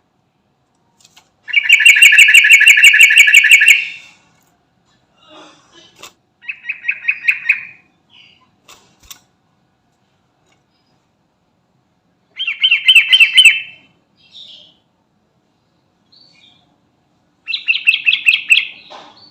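Yellow-vented bulbul (trucukan) singing: four bursts of rapid, bubbling trills, the first and longest lasting about two and a half seconds, with pauses of a few seconds between them.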